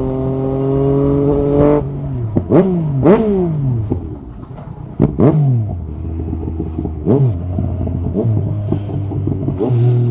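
Yamaha MT-09 SP three-cylinder engine through an Akrapovic carbon exhaust, pulling with a slowly rising note until the throttle shuts off about two seconds in. Then comes a series of sharp throttle blips, each revving up quickly and falling away, with the engine settling to a low idle between them and a few short pops from the exhaust.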